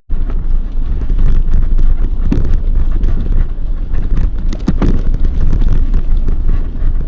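Wind buffeting the microphone while riding a loaded bicycle on a gravel road, with the tyres crunching and a few sharper knocks and rattles from the bike.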